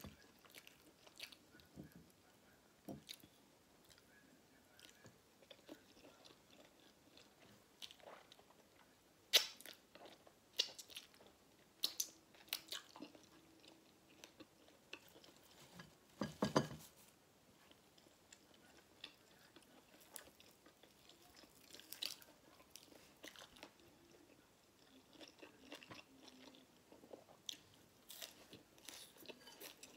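Close-miked chewing of pork, shrimp and rice-noodle soup: scattered wet mouth clicks and soft crunches at a low level, with a louder, longer eating noise about sixteen seconds in.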